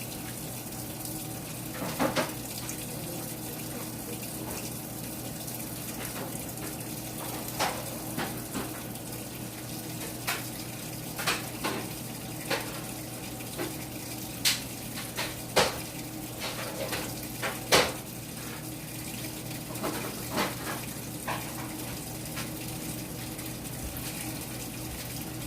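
Scattered clinks and knocks of kitchen items being handled, over the steady run of a washing machine with a watery background noise.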